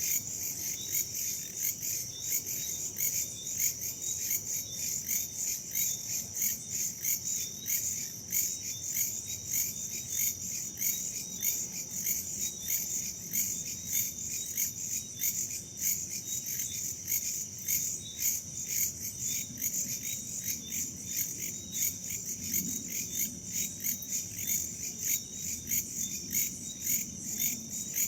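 Crickets chirping in a steady run of rapid, evenly repeated high-pitched pulses, with a faint low rush of wind underneath.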